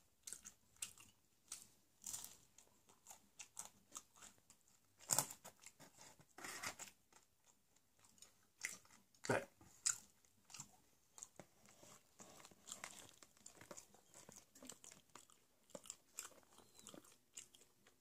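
Close-up chewing and crunching of thick-crusted square pizza, a stream of small mouth clicks with a few louder crunches about five, six and a half, and nine seconds in.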